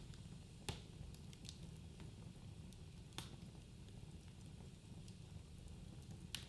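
Wood fire crackling in a fireplace: a low steady rumble of the flames with scattered small crackles and three louder pops, under a second in, about halfway, and just before the end.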